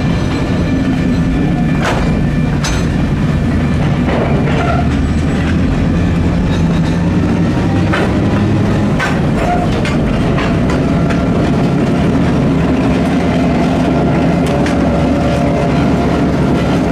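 Diesel switcher locomotive's engine running steadily as it moves a short freight train slowly across a street grade crossing, with irregular clacks from the car wheels rolling over the crossing rails.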